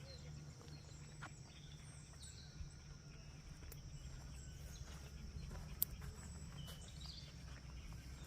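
Faint outdoor nature ambience: a steady low rumble under a steady high insect-like drone, with scattered short bird chirps and a few light clicks, one sharp click about six seconds in.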